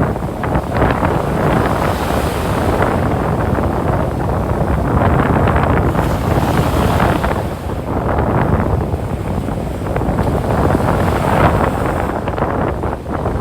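Ocean surf washing on a sandy beach, mixed with heavy wind buffeting the microphone. The waves swell and ebb every few seconds.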